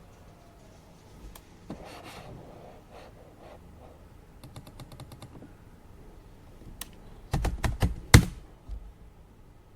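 Computer keyboard typing in short bursts: a quick run of light keystrokes about halfway through, then a few loud, hard key strikes near the end, the last one the loudest.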